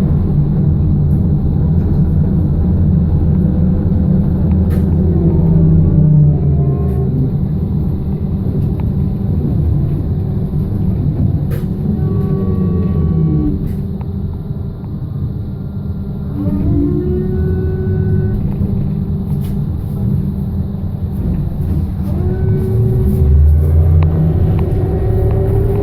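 Cabin of a BKM-221 trolleybus under way: a steady low rumble of the running bus, with the electric traction drive whining up and down in pitch several times as it speeds up and slows. A few sharp clicks and rattles are heard.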